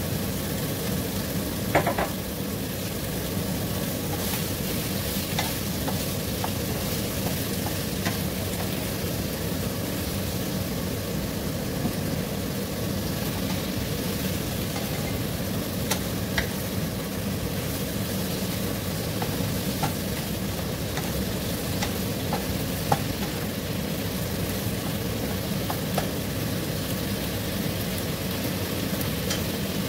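Squid tentacles and minced garlic sizzling in a nonstick frying pan while being stirred with a wooden spatula: a steady frying hiss, with a few short knocks of the spatula against the pan.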